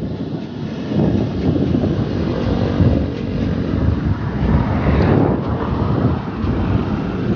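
Wind buffeting the microphone while cycling, over the steady rumble of road traffic, with a brighter swell about five seconds in.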